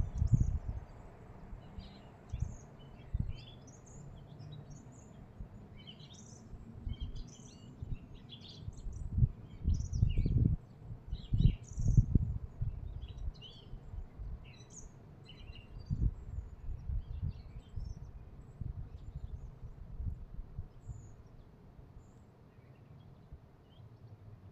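Small birds chirping and twittering in many short high calls, thinning out near the end. Irregular low rumbling thumps come and go and are the loudest sound.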